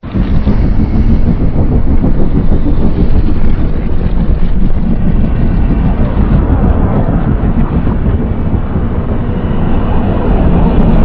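Custom kaiju sound effect for Titanus Gorvathor: a loud, steady, deep rumbling that starts suddenly and holds without a clear pitch.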